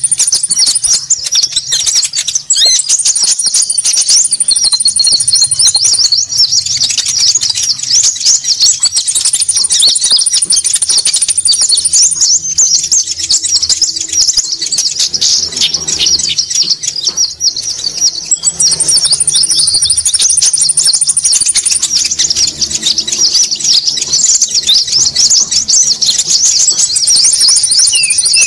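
Bird-lure recording of small birds calling noisily: dense, rapid chattering calls throughout, with a high buzzy trill that comes and goes every few seconds.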